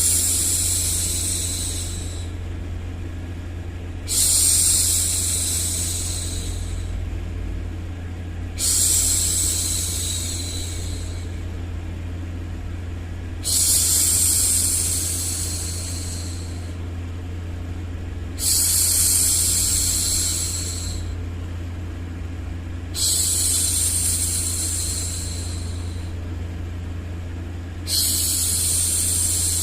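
A woman's voice shushing a baby, a long 'shhh' repeated about every four to five seconds, each fading away over a couple of seconds, seven times, over a steady low rumble of white noise.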